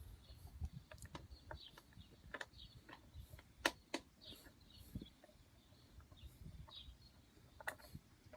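Scattered small clicks and taps from handling and loosening a lawnmower's air-filter cover, one louder click a little before halfway, with faint bird chirps in the background.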